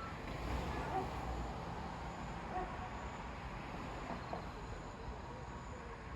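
Night-time outdoor ambience: a steady low rumble like distant traffic, heaviest in the first second or two, with faint short insect chirps over it.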